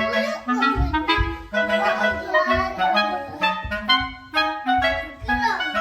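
Background music: a bouncy tune led by a clarinet-like wind instrument over a steady bass beat.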